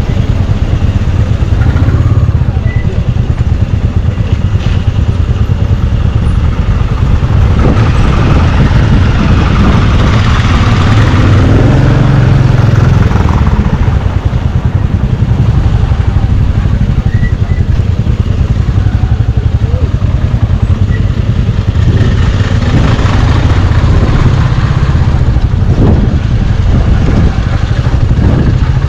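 Motorcycle engine running while riding, under a heavy, steady rumble of wind on the microphone.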